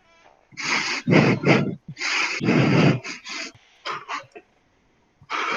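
Heavy breathing in a run of about nine short, harsh, rasping breaths over roughly four seconds, which then stops.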